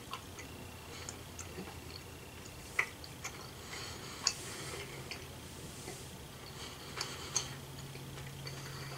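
A person chewing a soft gummy candy with the mouth closed: faint, irregular small wet clicks, a handful over several seconds, over a low steady hum.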